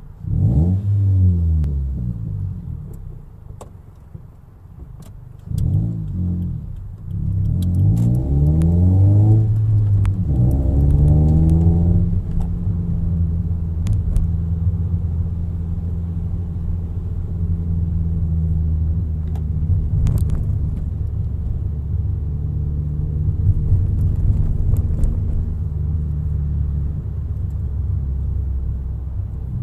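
Toyota Yaris hatchback's engine and exhaust heard from inside the cabin, revving up and dropping back several times as it pulls through the gears of its manual gearbox. From about twelve seconds in it settles into a steady low drone at cruise.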